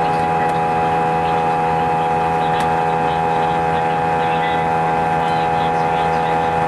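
Airbus A320 cabin noise in flight: a loud, steady engine drone with several fixed humming tones. Passengers felt it as strong vibration through the seats and took it for a sign that something was not right. A cabin intercom announcement is faintly buried under it and cannot be made out.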